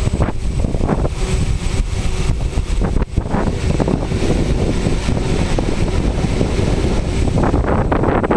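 Strong, gusty wind buffeting the microphone, a heavy, uneven low rumble that dips briefly about three seconds in.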